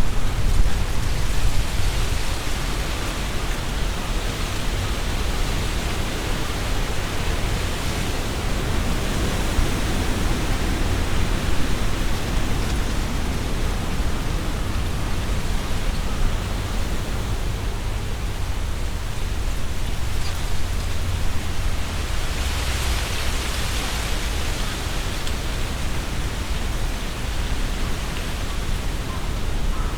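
Strong wind rustling through tree leaves, with a low rumble of wind on the microphone. A gust swells the leaf rustle a little past two-thirds of the way through.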